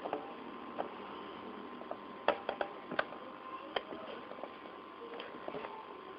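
Irregular light clicks and taps, a cluster of them about two to four seconds in, over a faint steady hum.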